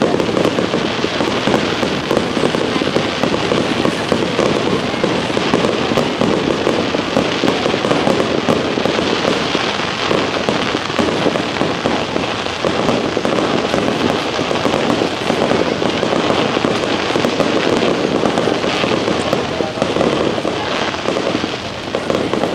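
Fireworks display: aerial shells bursting in a dense, unbroken barrage of bangs and crackling that run together without pause.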